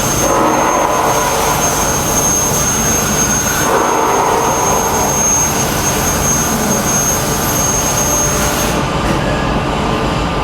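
Press brake running while folding a steel hinge blank: a loud, steady machine noise with a thin high whine that stops about nine seconds in.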